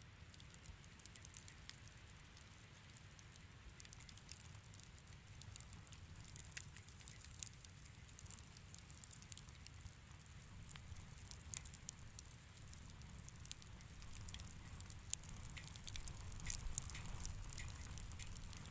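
Wood fire crackling in a fireplace: scattered sharp pops and snaps over a low steady rumble, the pops coming thicker and louder near the end.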